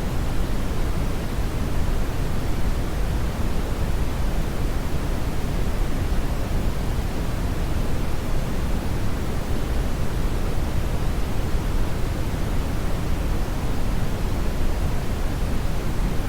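Steady brown noise: a continuous, unchanging deep rushing hiss, loudest in the low end and falling away toward the highs.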